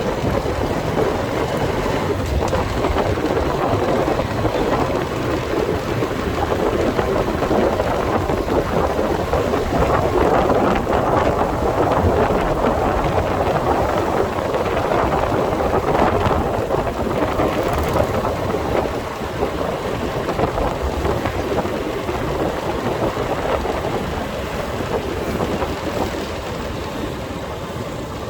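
Steady rushing noise of a motorcycle ride: wind buffeting the microphone over engine and road noise, easing a little in the last third.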